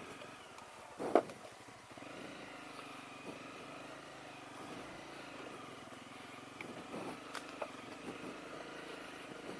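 Honda CRF250L's single-cylinder engine running at low speed, with one sharp knock about a second in and a few lighter clicks near the end.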